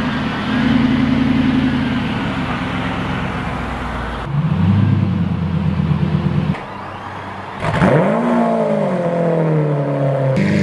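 Several car engines cold-started and running, edited one after another with abrupt cuts. An engine runs steadily at first, a different one takes over about four seconds in, and after a brief quieter stretch another engine fires near the end, its revs flaring up and then falling back toward a fast cold idle.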